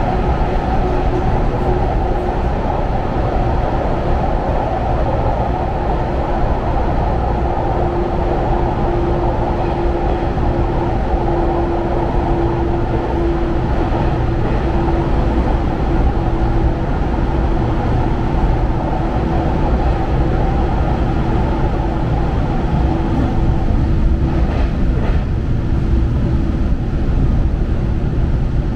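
Running noise of a 455/413 series electric multiple unit heard from inside the carriage: a steady rumble of wheels on rail with a steady hum that swells in the middle.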